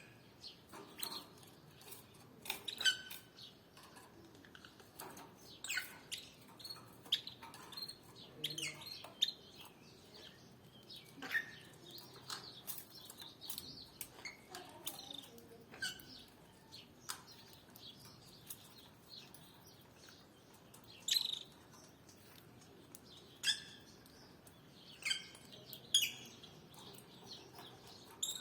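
Canaries giving short, sharp chirps and call notes at irregular intervals, many of them quick downward slides, rather than a continuous song.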